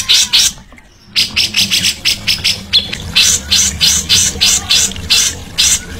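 Songbird calling in a fast series of harsh, chattering notes, about four a second, with a brief break about a second in.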